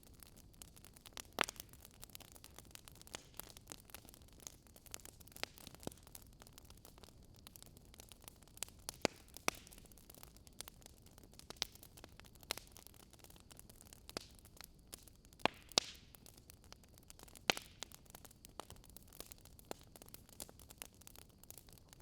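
Wood fire crackling softly: irregular sharp pops and snaps over a faint steady hiss.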